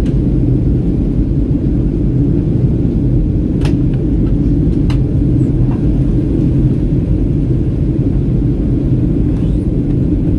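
Steady low rumble of a Boeing 737-800 cabin in flight: its CFM56-7B engines and the airflow over the fuselage, unchanging throughout. A few faint light clicks sound about four and five seconds in.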